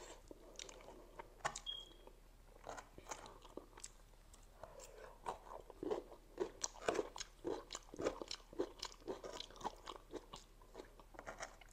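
Close-miked chewing of spicy noodles and chili momo: wet mouth smacks and short clicks, sparse at first and busier from about halfway through.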